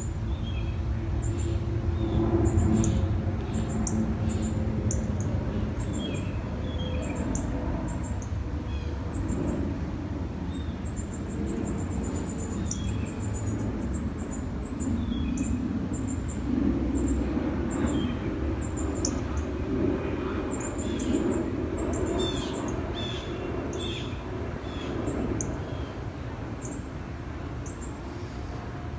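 Small birds chirping: many short, high chirps scattered throughout, with a quick run of chirps about halfway through, over a steady low rumble.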